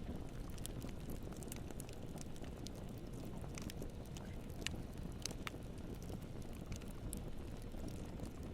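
Campfire burning, a steady low rumble of flames with scattered crackles and pops from the wood, a few sharper pops about five seconds in.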